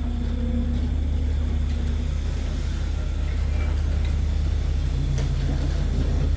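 Diesel train engine running steadily with a deep, even rumble.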